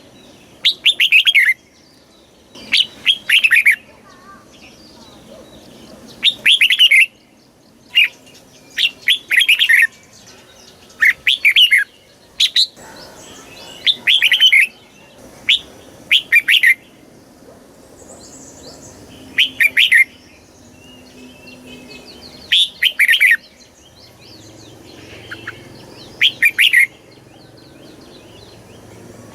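Red-whiskered bulbul singing: short, loud phrases of quick rising and falling whistled notes, repeated every second or two.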